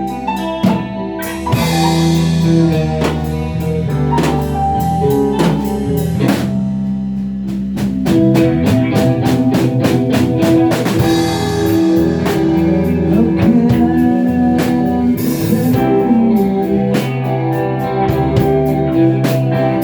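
A band playing: guitar over a drum kit with steady, regular drum hits.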